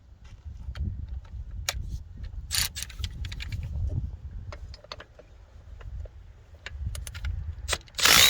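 Metal hand tools clicking and clinking, as sockets and a ratchet are handled and swapped, with a louder brief rattle near the end.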